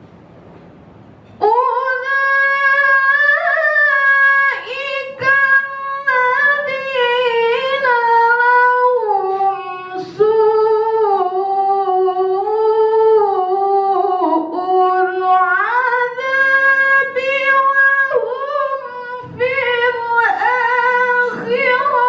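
A woman reciting the Quran in the melodic tilawah style, holding long high notes with ornamented turns and short breaks between phrases. The voice comes in about a second and a half in, after faint room noise.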